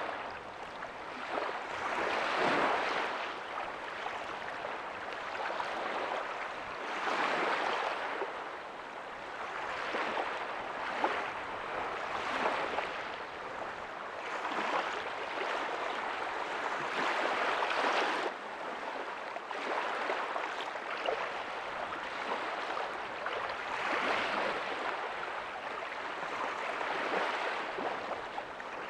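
Ocean waves breaking softly on a beach: a steady hiss of surf that swells and falls back every few seconds.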